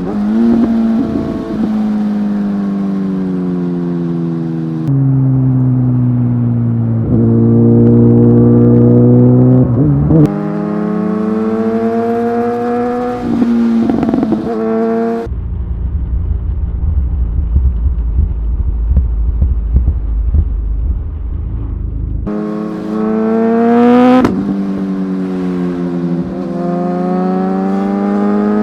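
Inline-four superbike engine accelerating hard, its note climbing and then dropping at each upshift, several times over. In the middle a stretch of low steady rumble without the engine note.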